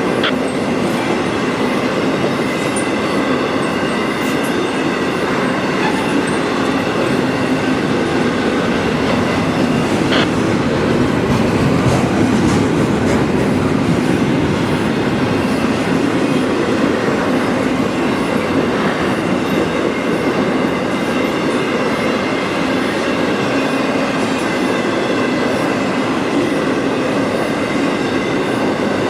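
CSX freight train's cars rolling steadily past, steel wheels clattering on the rail with a couple of sharper clicks.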